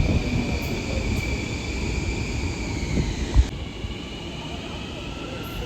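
Long Island Rail Road electric train running through the station: low rumble of wheels on rail under a steady motor whine. A single sharp clunk comes about three and a half seconds in, and a whine rises in pitch near the end as the train picks up speed.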